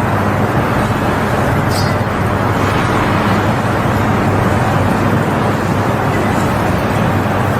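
An engine running steadily under a loud, even rushing noise.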